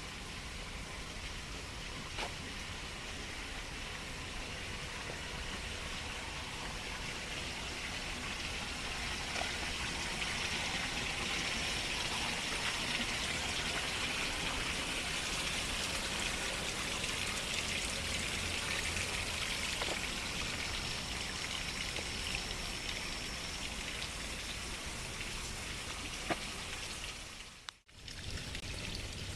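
Steady rush of flowing stream water, a little louder through the middle, with a brief drop-out near the end.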